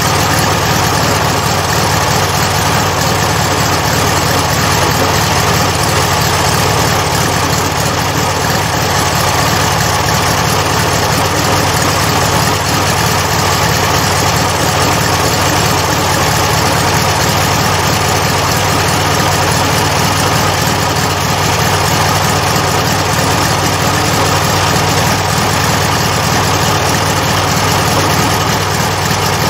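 Rebuilt VW Beetle 1300 air-cooled flat-four engine running steadily at an even speed, with no revving.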